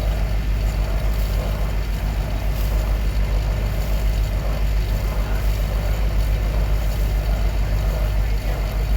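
Steady low drone of a Kochi Water Metro ferry under way, holding an even level throughout.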